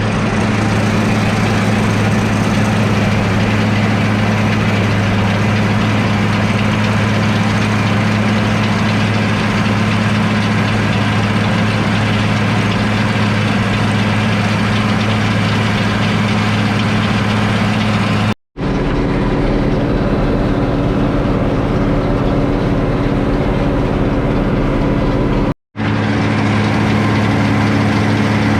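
International 1086 tractor's turbocharged six-cylinder diesel running steadily under load, driving a New Holland 488 mower-conditioner, heard from inside the cab. The sound cuts out briefly twice, at about 18 and 25 seconds in.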